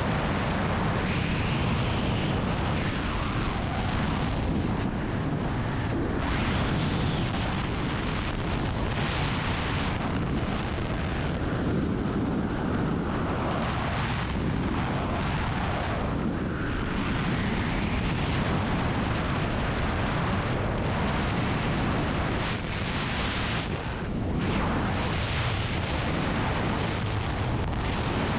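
Wind rushing and buffeting over the camera's microphone during skydiving freefall: a loud, steady rumble that swells and eases unevenly.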